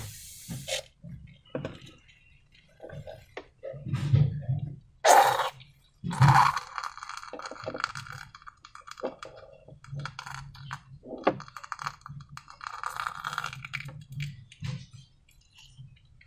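Irregular handling noise from slime and balloons: scattered small clicks and rustles, with two louder sharp sounds about five and six seconds in.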